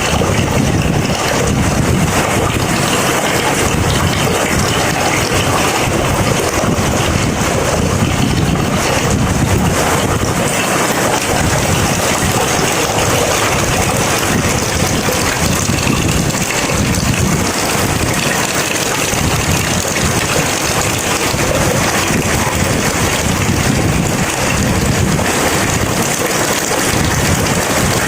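Steady, heavy rain with a low, uneven rumble underneath.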